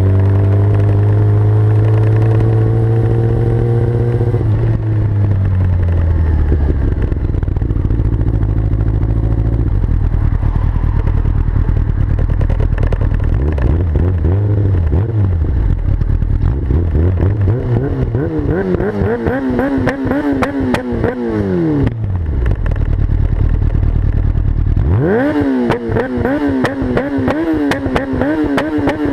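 Yamaha R6's inline-four engine through a full Akrapovic Evolution exhaust, held at high revs for a few seconds, then dropping. It is then revved up and down again and again, with popping and crackling backfires from the exhaust as the revs fall.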